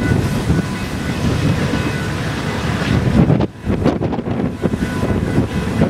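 Union Pacific intermodal freight train's cars rolling past, a steady rumble, with heavy wind buffeting the microphone. A brief drop in the noise comes about three and a half seconds in.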